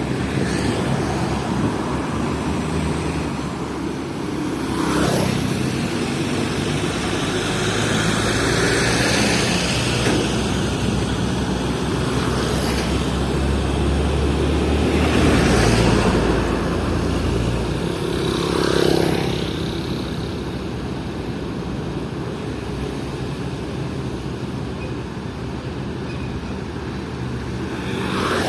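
Hino FL 260 JT truck's diesel engine running steadily under a heavy coal load, with several other vehicles whooshing past.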